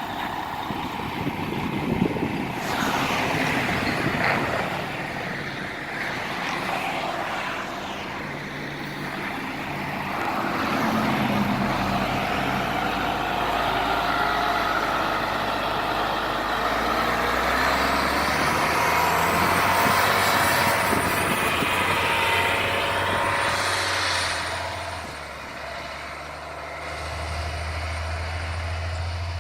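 MCI D4500 highway coach's diesel engine running with road noise as the bus drives, the engine's pitch shifting as it goes.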